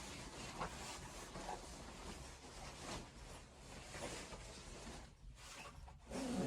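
Faint, scattered rustling and scratching.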